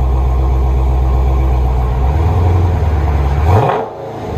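2020 Dodge Challenger Scat Pack's 6.4 L HEMI V8 running through a 3-inch dual exhaust with Jones JFP mufflers in place of the factory mid mufflers. It idles steadily, its note steps up about two seconds in, and near the end there is a brief rise in pitch that cuts off sharply.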